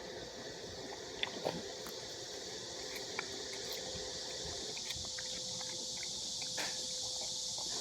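Cicadas calling as a steady high hiss that grows slightly louder, over scattered small clicks and crunches from a miniature schnauzer eating.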